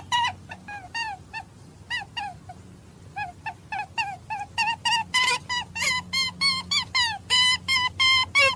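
Animal calls: a rapid string of short, high, squeaky calls, several a second, each sliding down in pitch, growing louder and more crowded about halfway through, over a faint low hum.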